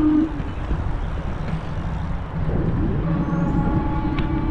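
Fat-tire e-bike on the move: a steady low rumble of wind and tyres. About two and a half seconds in, a whine rises and then holds steady, with a single click near the end.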